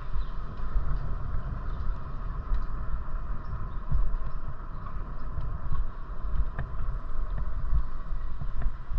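Wind buffeting the microphone of a moving bicycle rider: an uneven, gusty rumble over a steady hiss of street noise.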